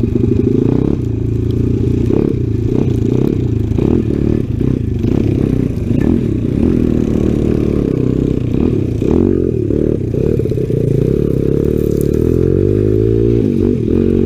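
Small Honda four-stroke single-cylinder dirt bike engine running under load, its pitch rising and falling as the throttle opens and closes, with scattered clicks and scrapes over it.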